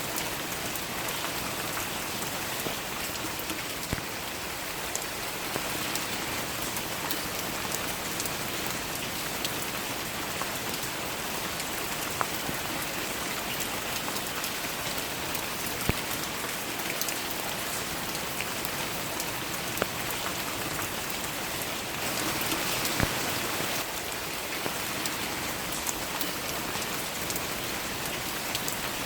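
Steady rain falling, with scattered louder single drops striking close by. The rain swells briefly a little over two-thirds of the way through.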